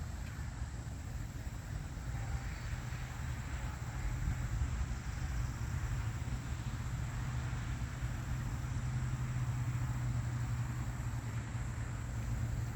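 A vehicle engine running steadily: a low rumble that grows a little louder about four seconds in.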